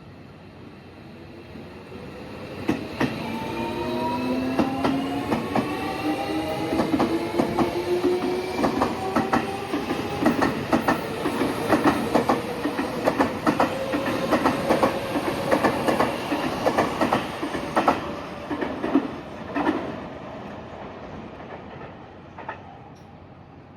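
Electric commuter train pulling out of a station: the motor whine climbs steadily in pitch as it picks up speed, and the wheels clack rapidly over the rail joints. The sound grows loud within a few seconds, then fades away after about 20 seconds.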